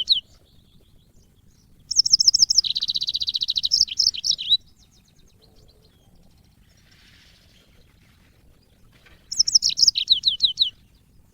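Yellow-fronted canary (Mozambique canary) singing: two song phrases, one about two seconds in and one near the end, each a quick series of high notes sweeping downward, the first with a fast trill in the middle.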